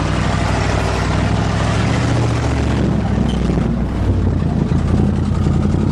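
A GMC pickup's 400 small-block gas V8 runs hard under load as the truck drives into a mud hole, with water and mud splashing loudly over the first three seconds or so.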